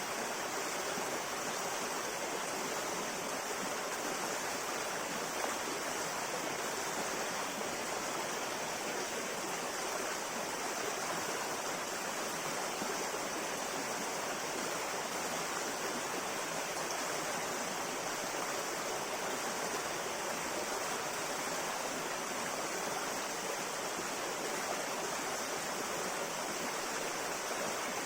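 A river flowing in a steady, unbroken rush of water, more bright hiss than deep rumble.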